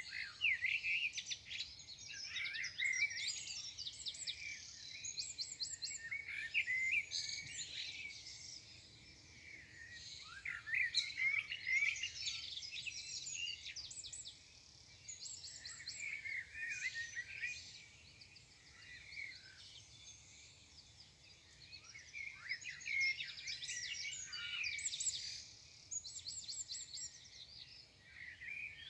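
Morning chorus of songbirds: several birds singing at once in overlapping bouts of chirps, quick trills and rapid repeated notes.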